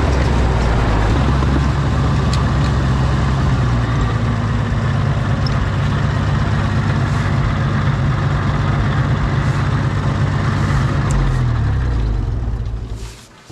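Oliver OC-6 crawler tractor's engine running steadily and hard, then slowing and dying down near the end.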